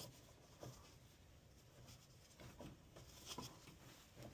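Near silence, with a few faint short taps and rubs.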